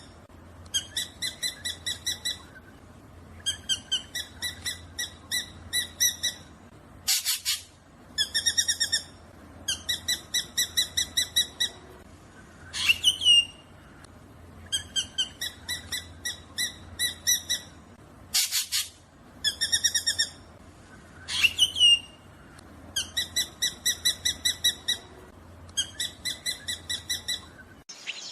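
Black drongo calling: repeated runs of about six to ten quick, short notes, each run lasting about a second. The runs are broken by an occasional single harsh rasp and a couple of sweeping whistled notes.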